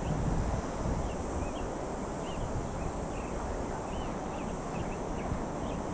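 Outdoor riverside ambience: many short bird chirps, several a second, over a steady rushing noise of wind or moving water, with a steady high hiss.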